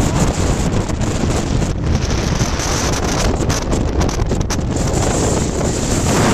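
Strong gale-force wind buffeting the microphone on an open ship's deck, a loud, steady rumble with gusts and no let-up.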